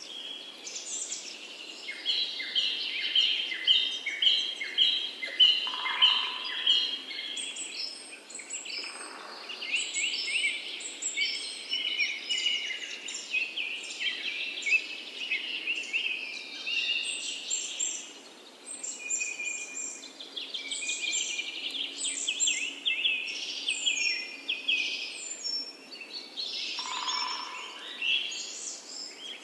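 Several birds singing at once: overlapping runs of short, high, rapidly repeated chirps and trills.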